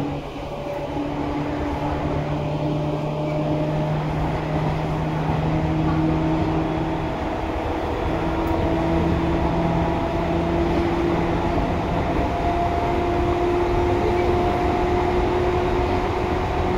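Seibu 2000 series electric multiple unit running, heard from on board: a steady rumble of wheels on rail with a motor and gear whine that rises slowly in pitch as the train gathers speed.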